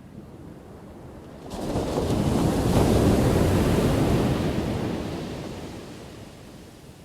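Ocean wave crashing: low surf rumble, then about a second and a half in a wave breaks suddenly and its wash fades away over the next few seconds.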